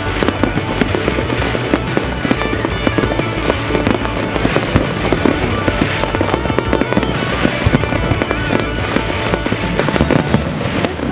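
Fireworks bursting and crackling in rapid succession, with music playing along.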